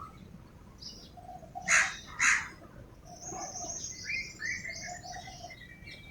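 Birds chirping in the background with short, repeated high chirps, and two short hissing puffs about two seconds in.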